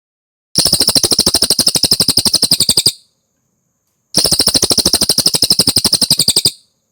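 Recorded cililin birdsong played as a tutor track: two fast trills of rapidly repeated high notes, about fifteen a second, each lasting a little over two seconds with a short pause between.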